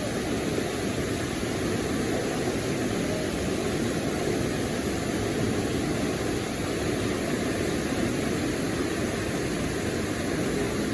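Waterfall: a steady rush of falling water, unbroken and without pitch.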